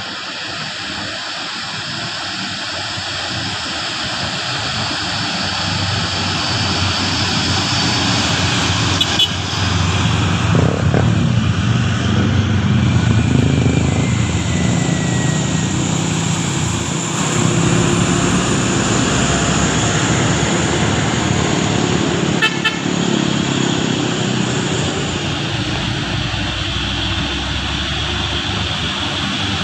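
Heavy truck engine running on the road with steady road and traffic noise, growing louder over the first several seconds.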